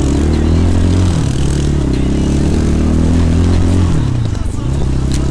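A 250 cc enduro motorcycle engine running under load. Its pitch rises in the first second, holds fairly steady, then falls away about four seconds in before settling again.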